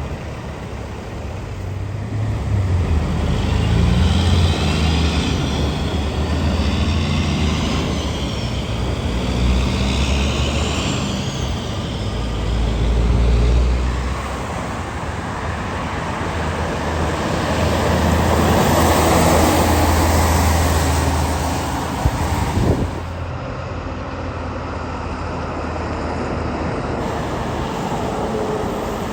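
Heavy truck engine passing on the road, its pitch rising and falling several times as it pulls through. Another vehicle then goes by, with road traffic noise throughout and a couple of sharp knocks near the end.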